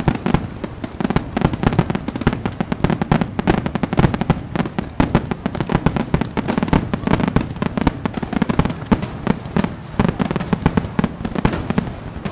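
Fireworks going off in a dense, continuous barrage of bangs and crackles, many a second, without a pause.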